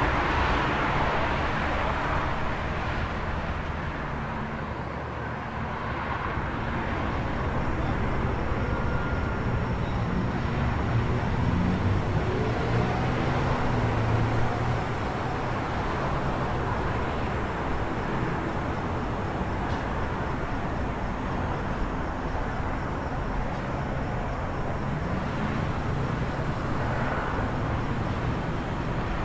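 City traffic ambience: a steady wash of vehicles passing with a low engine rumble, one passing louder at the start and fading.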